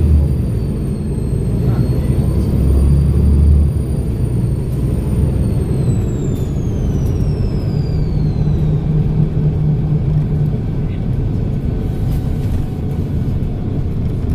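Volvo B7RLE bus's six-cylinder diesel engine running with its turbocharger whistling: a thin high whine that holds steady, then slides down in pitch and fades about six to nine seconds in, over a steady low engine drone.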